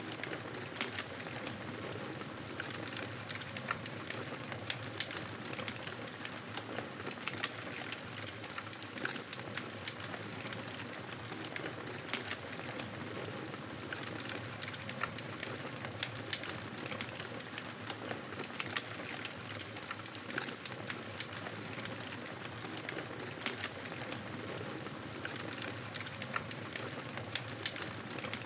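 Wood fire crackling steadily in a fireplace: a constant soft hiss with frequent small, irregular pops and snaps.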